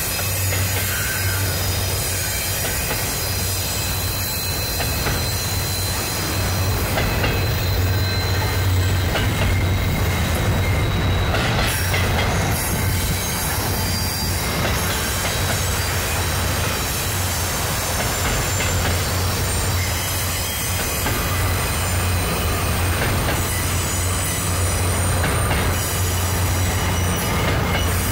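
Double-stack container freight cars rolling past on a steel girder bridge: a steady, loud rumble with a thin, high-pitched squeal from the wheels on the rails.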